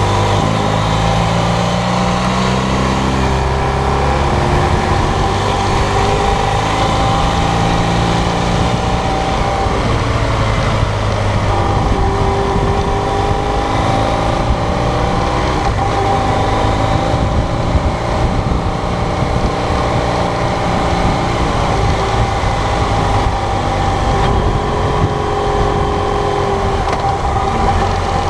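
BMW GS motorcycle's twin-cylinder engine running on the move. Its pitch climbs and drops repeatedly with throttle and gear changes. Wind rumbles on the microphone.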